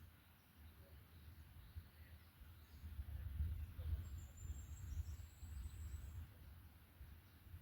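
Faint forest birdsong: scattered soft chirps and one high, thin song phrase about four seconds in, over a low rumble that swells in the middle.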